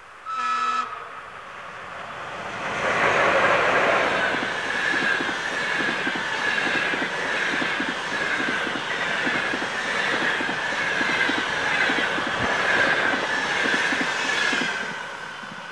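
A short blast on a ChS8 electric locomotive's horn, given as a greeting, then the locomotive and its passenger coaches pass at about 100 km/h: loud rushing noise with a regular clatter of wheels over rail joints and a steady high-pitched ring from the wheels. The noise fades near the end as the last coach goes by.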